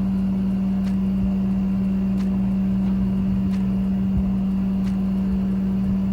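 Rheem hybrid heat pump water heater running in heat pump mode: a steady hum from its compressor and fan, sounding like an old fridge, with a faint tick about every second and a quarter.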